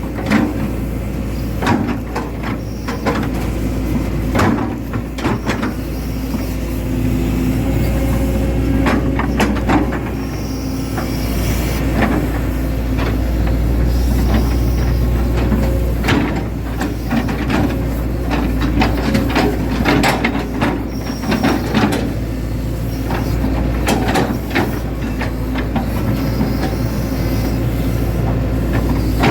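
Hitachi Zaxis 110 hydraulic excavator working: its diesel engine runs steadily under load, with frequent clanks and knocks and brief high squeals now and then.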